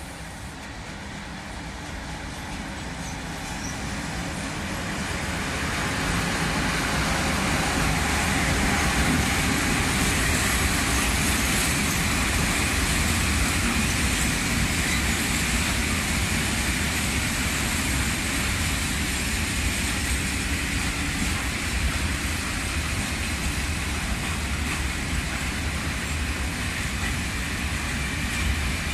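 Freight train of tank wagons passing close by. The noise grows over the first several seconds as the train approaches, then holds as a steady rumble of wheels on rails while the wagons roll past.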